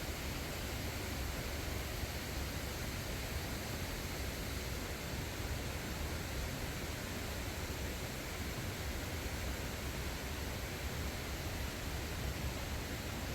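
Waterfall running steadily in heavy flow, a constant even rush of falling water with a deep low rumble and no breaks.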